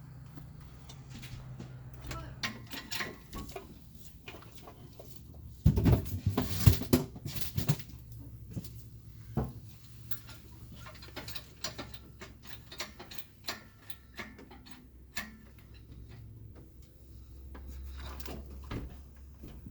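Scattered clicks, knocks and rattles of hands-on work during an engine installation, with a burst of loud clattering about six seconds in. A low steady hum runs underneath.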